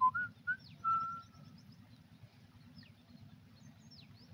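Birds calling: three or four short whistled notes in the first second and a half, the last one drawn out, then a few thin falling chirps. A steady low rumble runs underneath.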